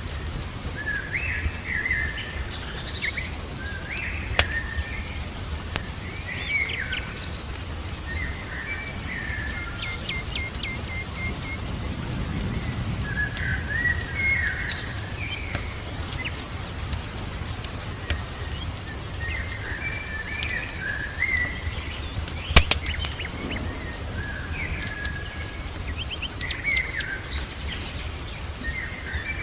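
Birds chirping and singing in short repeated phrases, over a steady low hiss of rain, with scattered sharp crackling pops from a fireplace fire, one louder pop about two-thirds of the way through.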